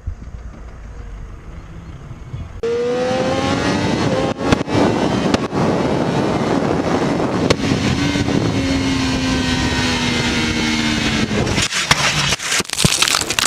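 Motorcycle engine running at speed under wind rush, its note rising slowly and then easing down. The engine note cuts off suddenly near the end, followed by a burst of hiss and a few sharp clicks.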